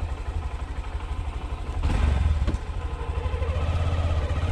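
A 125 cc motorcycle engine running with a steady low throb, briefly louder with a couple of clicks about two seconds in.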